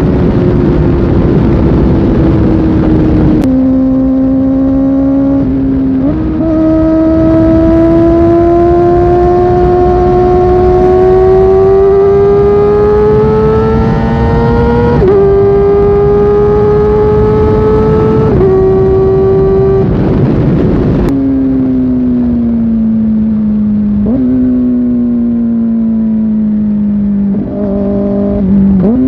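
Kawasaki Ninja ZX-4R's 399 cc inline-four engine under way, climbing in pitch under acceleration with several upshifts that drop the tone. In the second half it slows, the pitch falling, with small blips on downshifts.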